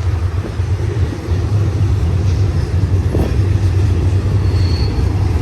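Double-stack intermodal freight train rolling past, with a steady deep diesel rumble from the mid-train locomotives drawing near.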